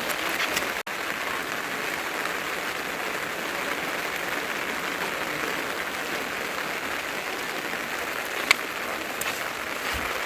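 Heavy rain falling steadily as a dense, even hiss, with one sharp tap about eight and a half seconds in.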